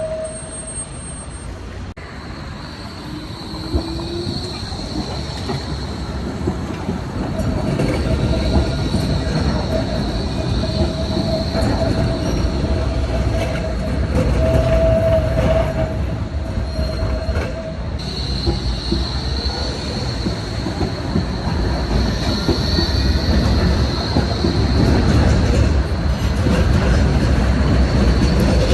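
Tram wheels squealing against the rails, a steady high-pitched squeal (the so-called singing rails), with a lower squeal tone joining in the middle, over the rumble of the tram running. It grows louder toward the end.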